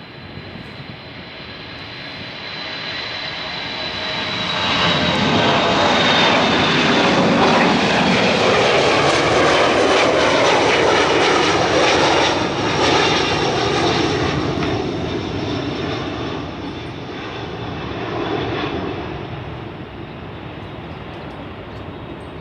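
Jet airliner flying close past. Its engine noise builds over about five seconds, stays loud for several seconds, then fades away. A high whine slides slowly downward as it approaches.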